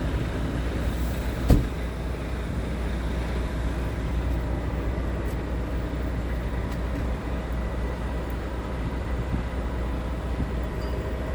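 Scania P-series truck's diesel engine idling steadily, with a deep even hum. A single sharp knock about one and a half seconds in.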